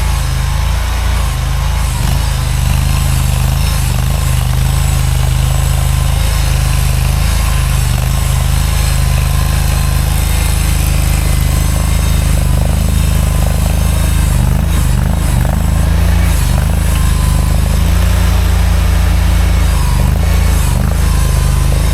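Mini skid steer's engine running close by, a loud, steady low drone whose pitch shifts now and then.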